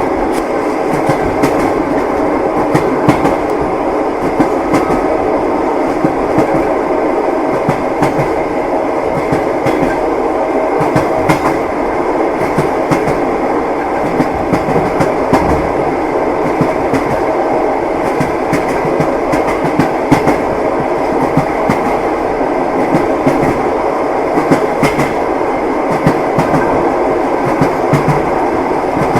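Inside a moving train's passenger compartment: a steady rumble of the carriage running along the track, with frequent clacks and knocks of the wheels over the rail joints.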